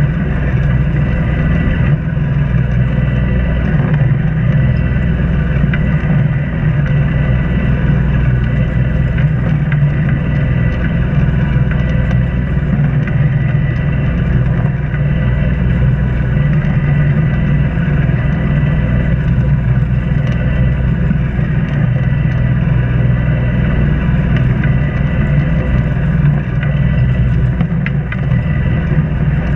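An Islander 36 sailboat's inboard engine running steadily while motoring, a constant, unchanging drone.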